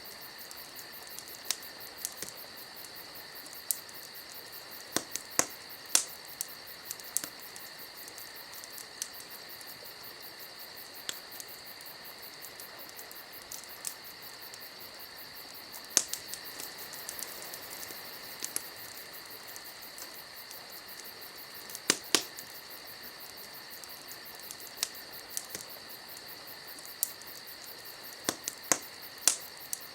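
Wood fire crackling, with irregular sharp pops, loudest about 6, 16 and 22 seconds in, over a steady high-pitched chirring like insects.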